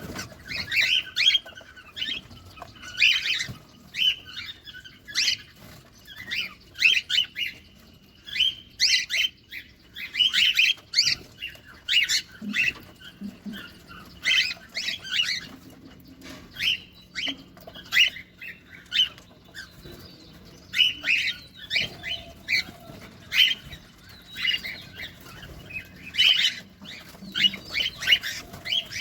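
Cockatiels chirping and squawking in short clusters of high, rasping calls, about one burst every second.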